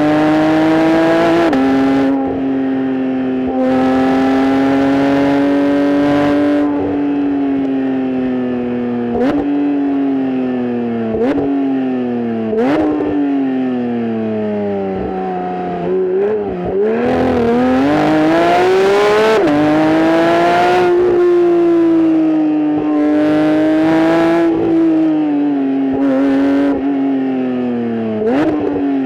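Porsche 992.1 911 GT3's naturally aspirated 4.0-litre flat-six, heard through its exhaust, pulling hard and easing off through a run of bends. The engine pitch climbs under acceleration and drops sharply at upshifts. Around the middle it jumps up in three quick rev-matched blips as the car shifts down for a corner.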